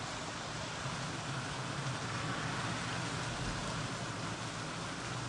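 Steady rain falling after a mountain thunderstorm, an even hiss with no distinct drops standing out.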